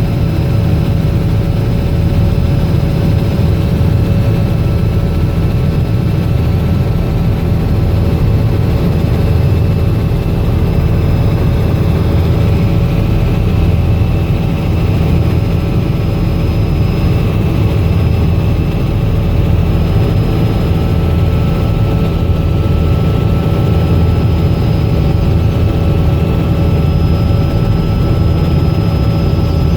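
Robinson R66 helicopter in flight: its turbine engine and rotor make a loud, steady drone with a few thin steady whining tones above it.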